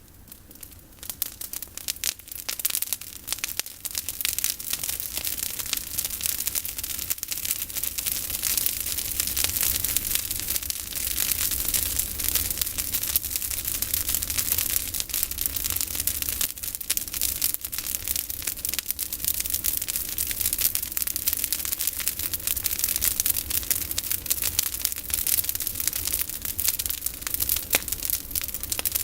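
Campfire of olive branches crackling: a dense, fast run of snaps and pops that grows louder over the first few seconds.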